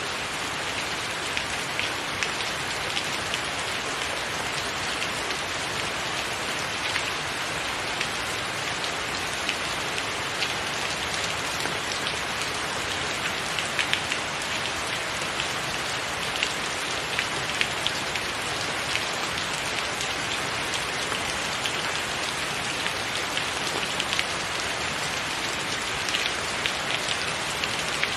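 Steady rain falling on a roof, an even hiss with the sharper ticks of individual drops striking scattered through it.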